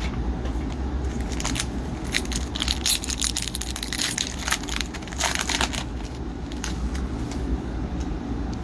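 Foil wrapper of a hockey card pack crinkling and tearing as it is opened, a dense run of crackles from about one and a half to six seconds in, over a steady low hum.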